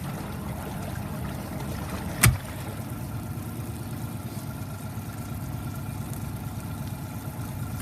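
Honda four-stroke outboard motor idling steadily, with one sharp thump a little over two seconds in.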